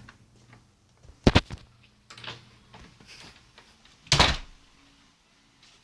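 Two loud thumps about three seconds apart: a sharp double knock, then a longer, heavier one.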